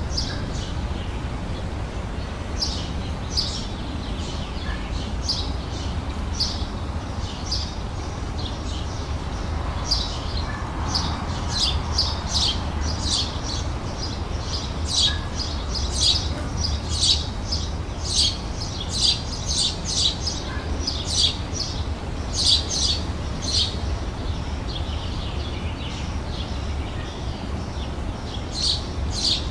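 Songbirds chirping outdoors: short, high chirps repeated in quick runs, sparse at first and much busier from about a third of the way in, over a steady low rumble.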